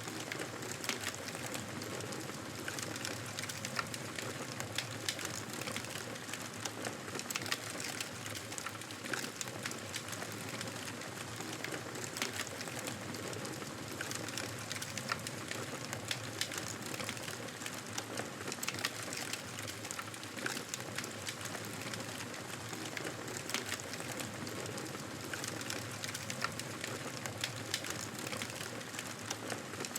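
Wood fire crackling in a fireplace: a steady hiss of flames with frequent small, irregular pops and snaps.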